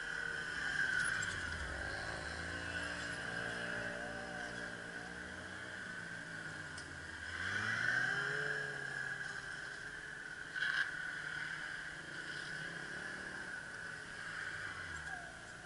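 Kawasaki ZR-7 motorcycle's inline-four engine revving up and down through tight turns, its pitch rising and falling again and again, loudest about halfway through as the bike passes closest.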